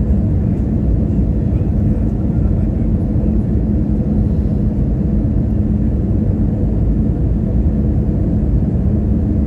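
Steady low rumble of an airliner's engines and airflow heard inside the passenger cabin, with a faint even hum running under it.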